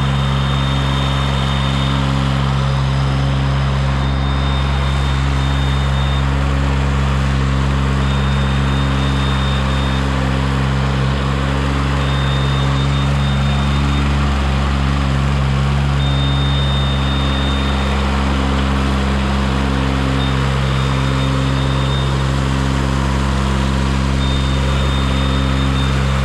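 CMC 90-foot tracked aerial lift's engine running steadily as the machine travels at its faster 'single rabbit' speed. A high warning beep sounds for about two seconds every four seconds.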